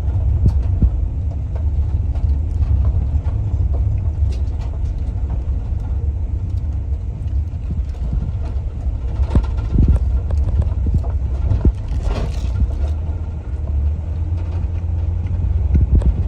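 A vehicle driving: a steady low rumble with scattered knocks and rattles.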